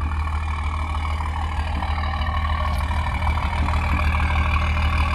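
BMW M140i's B58 three-litre turbocharged straight-six idling steadily through a Quicksilver valved exhaust, a constant low hum.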